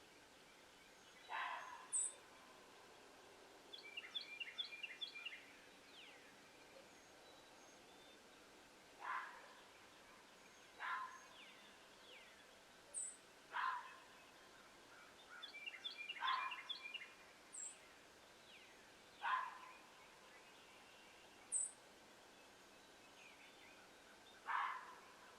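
Unidentified animal calls: a short call repeats every couple of seconds, two runs of fast chattering notes come about four and sixteen seconds in, and a few thin, high chips sound.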